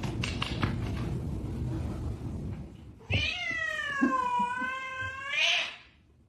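Domestic cat giving one long, drawn-out meow about three seconds in, dipping in pitch and rising again at the end. Before it come rough rustling noise and scattered clicks.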